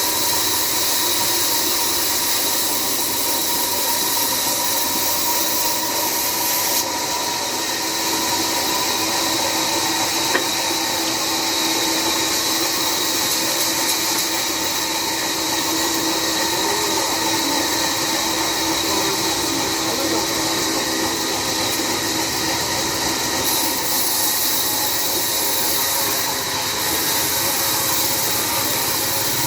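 Sawmill band saw cutting through a jackfruit log: a continuous loud hiss with a steady high whine, unbroken throughout.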